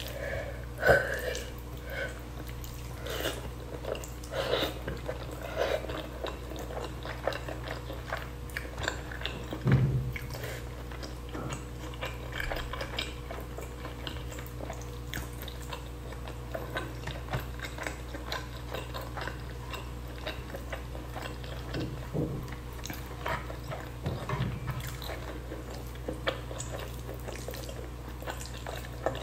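Close-miked chewing and mouth sounds of someone eating shredded spicy chicken by hand, with many small irregular clicks and rustles as fingers pick meat off a wooden board. A steady low hum runs underneath.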